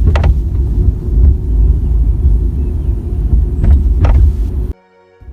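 Loud low road rumble inside a BMW 530's cabin while it is being driven, with a few short creaks or clicks from the headliner. The sound cuts off abruptly near the end.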